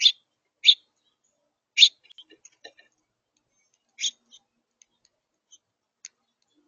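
Songbird giving short, sharp chip notes: four loud ones in the first four seconds, with fainter ticks between and after.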